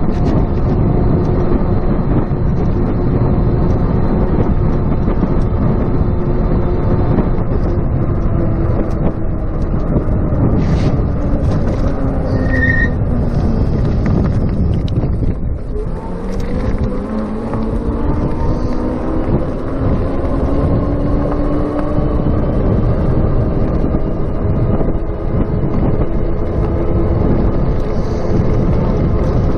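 Wind rushing over a chest-mounted camera microphone while riding a RadMini electric bicycle, with the motor's whine running underneath. The whine falls in pitch as the bike slows about halfway through, then rises again as it picks up speed.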